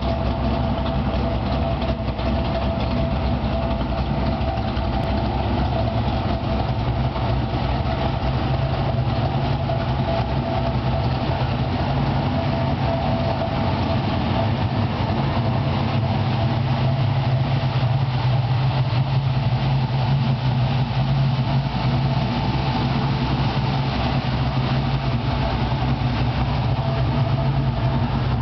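Engine of a 700-horsepower pro-touring 1973 Pontiac Trans Am idling steadily, with no revving.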